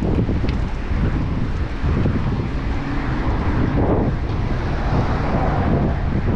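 Wind buffeting the microphone of a camera riding along on a moving bicycle: a loud, steady rush, heaviest in the low end.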